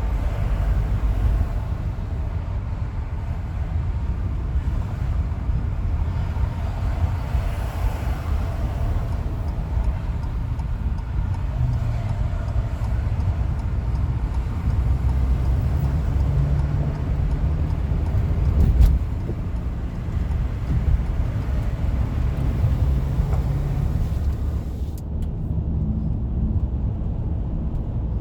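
Car cruising on a freeway: steady low road and tyre rumble, with one sharp thump about two-thirds of the way through and the higher hiss dropping away near the end.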